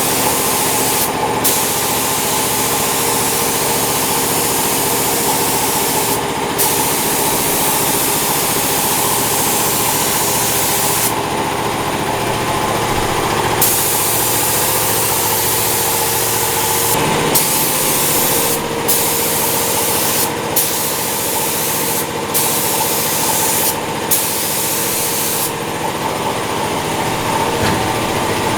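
Air-fed automotive paint spray gun hissing in long passes, cutting off briefly several times as the trigger is let go, with a longer break about halfway and another near the end. A motor hums steadily underneath.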